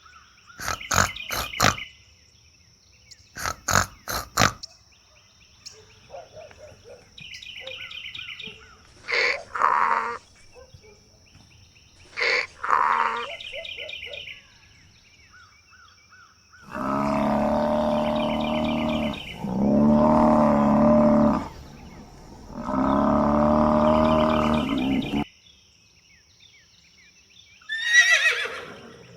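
A series of different farm and pet animal calls. First come quick clicking strokes and short chirps, then three long, loud, drawn-out calls of about two and a half seconds each, and a short falling call near the end.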